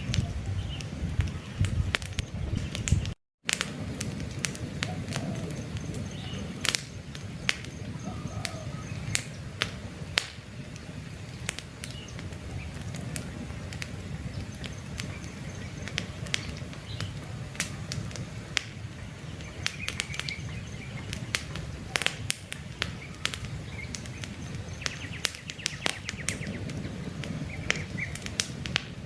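Campfire crackling, with frequent sharp pops over a steady low rumble, and birds chirping faintly now and then. The sound cuts out for a moment about three seconds in.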